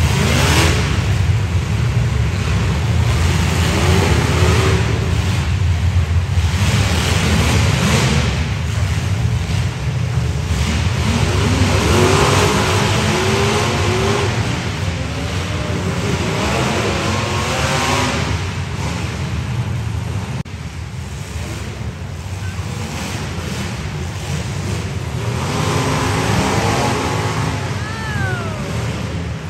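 Several demolition derby car engines running through open exhaust pipes, with a heavy rumble and repeated revving that rises and falls as the cars accelerate across the dirt floor.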